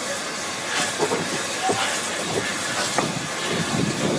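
Isle of Man Railway locomotive No. 15 Caledonia, an 0-6-0 steam tank engine, working slowly uphill with a five-coach train: slow, widely spaced exhaust chuffs, roughly one a second, over a steady hiss of steam. It is labouring for grip on greasy rails at about 1 mph.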